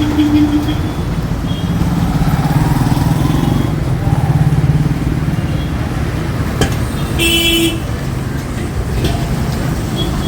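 Busy road traffic: engines of passing vehicles running steadily, with a short horn blast right at the start and another about seven seconds in.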